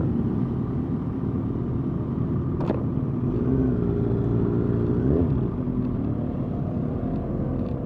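Motorcycle engines running together at parade pace over a low rumble. Engine pitch rises and falls as throttles are opened and closed, most clearly about four to five seconds in, with a single sharp click near three seconds.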